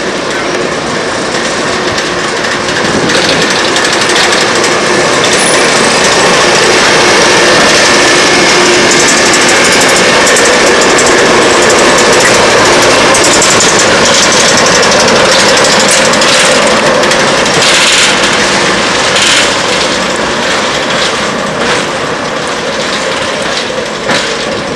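A railway train running close by: a loud, steady clattering noise that builds over the first few seconds, holds, then eases off near the end, with a few sharp knocks late on.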